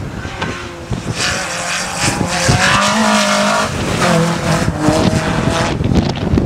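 Peugeot 205 GTI hillclimb car's four-cylinder engine at full throttle as it passes close by. The note climbs in pitch, drops sharply about halfway through as the car goes past, then climbs again as it pulls away.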